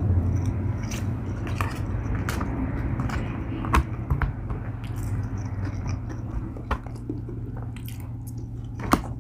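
Close-miked eating: chewing and biting food, with scattered wet mouth clicks and two sharper, louder bites, one about four seconds in and one near the end.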